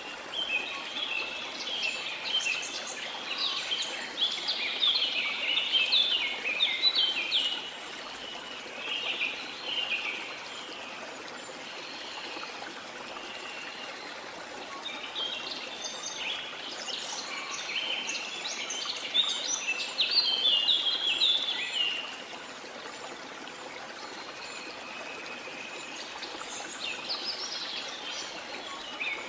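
Rainforest birds singing and chirping in three busy spells of quick, high notes, over the steady rush of a stream or waterfall.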